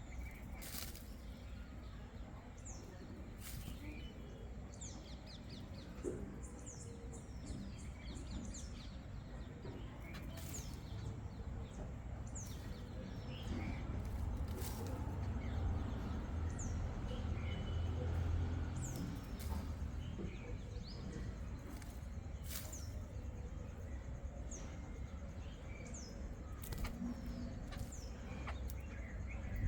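Small birds chirping: many short, high chirps that slide downward in pitch, scattered throughout, with a few sharp clicks. Under them runs a steady low rumble that grows louder in the middle.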